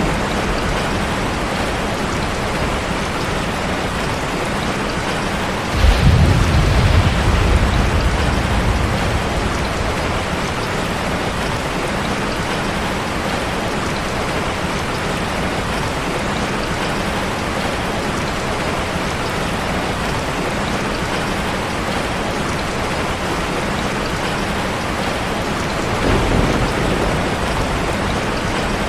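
Steady rain falling. About six seconds in, thunder starts with a sharp crack and rumbles off over a few seconds, and a softer rumble of thunder comes near the end.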